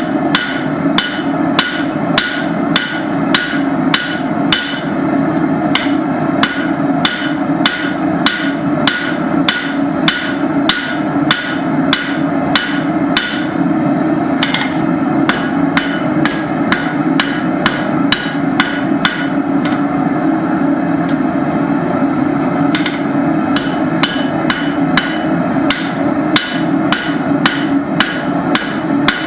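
Blacksmith's hammer striking hot steel stock on an anvil in a steady rhythm of about two to three blows a second, with a short pause about twenty seconds in. A steady rushing noise runs underneath.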